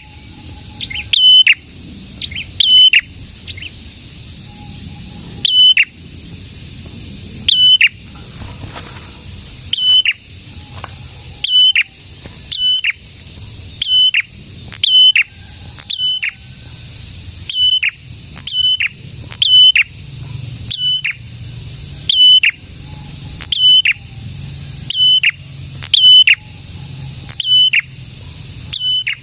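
A prenjak songbird calling over and over. Each call is a sharp high note that drops, holds briefly, then falls off. The calls come about every one to two seconds, sometimes in quick pairs, over a faint steady low hum.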